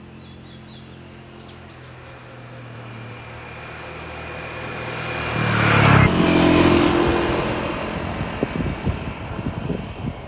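A motor vehicle approaching and passing close by: its engine hum swells, peaks about six seconds in with a drop in pitch as it goes past, then fades. Gusts of wind buffet the microphone near the end, and a few faint bird chirps sound at the start.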